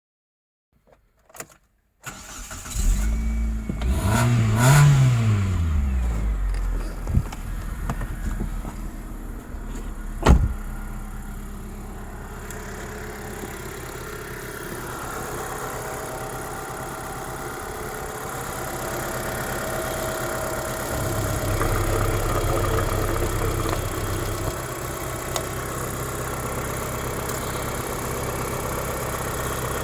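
Mitsubishi 4G93 1.8 GDI inline-four petrol engine starting about three seconds in, flaring up in revs and dropping back, then settling into a steady idle. There is a sharp click about ten seconds in.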